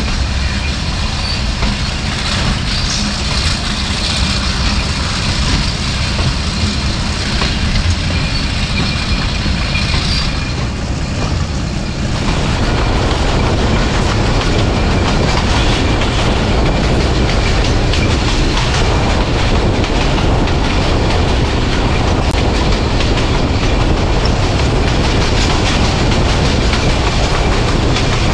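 Passenger train running along the track, heard from on board: steady rolling noise with wheel clickety-clack, growing louder about twelve seconds in as it gathers speed after leaving a station.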